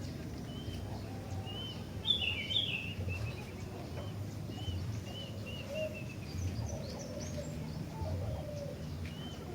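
A sooty-headed bulbul (kutilang) chirping in short arched whistled notes, with a louder burst of song about two seconds in and a quick run of chirps after it. Lower warbled notes come in the second half, over a steady low hum.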